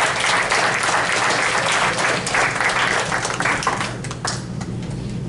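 Audience clapping for a student called up to receive a certificate, dying away about four seconds in.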